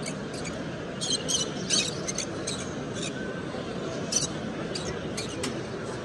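Cage birds chirping at a bird show: a string of short, high-pitched chirps, bunched about a second in and again around four to five seconds, over the hall's steady low background noise.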